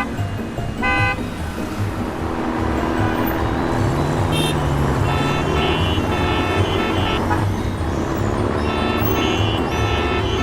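Vehicle engine rumble with horn-like toots, over background music.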